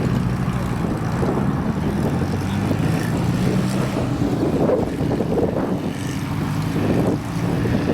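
A car engine running at steady low revs, a continuous low drone with no revving.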